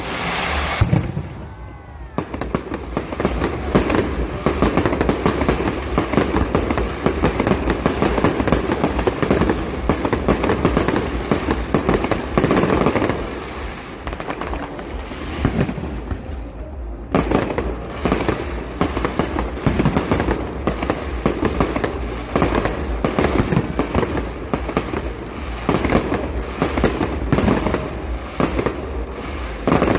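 Fireworks display: a rapid, continuous barrage of bangs and crackling bursts, easing briefly about halfway through before picking up again.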